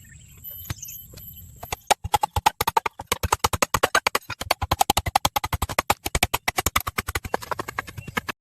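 Rapid, regular sharp taps, about eight a second, starting about two seconds in after a quieter opening.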